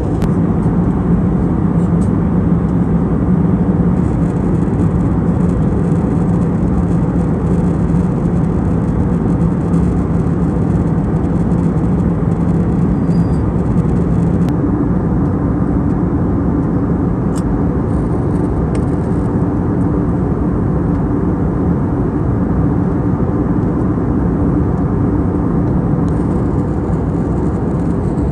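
Steady cabin noise of an Airbus A320neo airliner in flight: a constant rush of airflow and engine drone. A low hum under it shifts slightly higher about halfway through.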